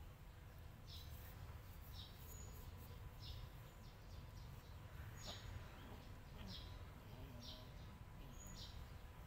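Faint outdoor background with a small bird chirping: short, high chirps repeated about once a second over a low steady rumble.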